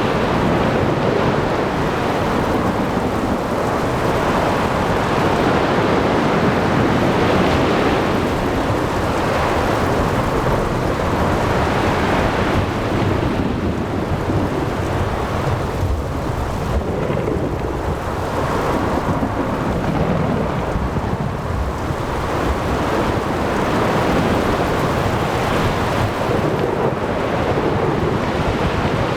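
Thunderstorm at sea: heavy rain and continuous low thunder rumbling, with waves and wind, in slow swells of loudness.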